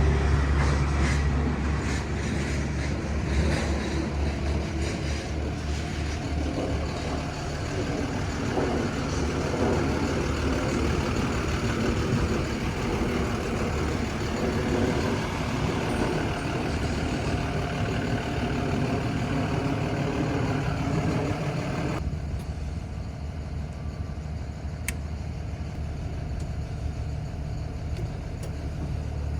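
A 6.7-litre Cummins turbo diesel box truck engine idling steadily, with a low, even hum. About three-quarters of the way through, the higher hiss drops away abruptly and only the low idle remains.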